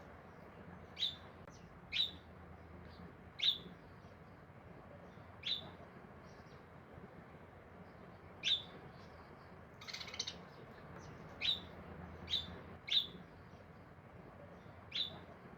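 Birds chirping: short, sharp calls that drop quickly in pitch, coming irregularly every second or two, sometimes in a quick little cluster.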